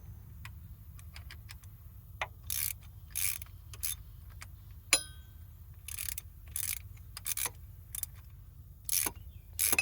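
Socket ratchet wrench clicking in short strokes at uneven intervals as a bolt is undone, with one sharp metallic clink about five seconds in, over a steady low hum.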